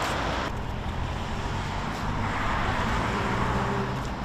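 Street traffic noise: a motor vehicle's engine running with a steady low hum, over a wash of road noise that swells for a while partway through.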